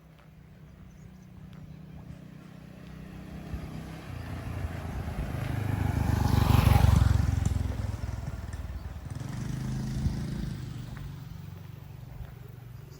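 A motor vehicle's engine approaching and passing close by, loudest about seven seconds in, then fading. A second vehicle swells and passes around ten seconds in.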